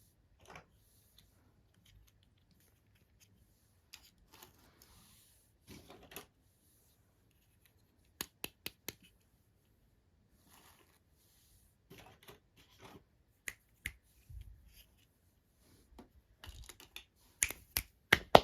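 Hands handling small plastic toy pieces and packaging: scattered sharp clicks and brief rustles, with a quick run of clicks about halfway and the loudest, busiest clicking near the end.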